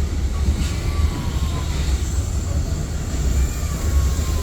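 Train running on the rails with a steady, heavy low rumble. A faint thin squeal slides slightly down in pitch twice, about half a second in and again near the end.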